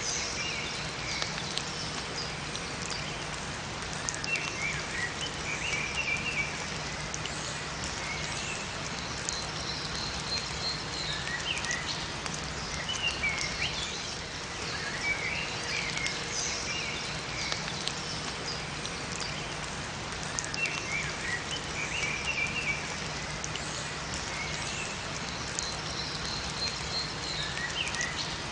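Steady rain with small birds chirping in short calls every few seconds.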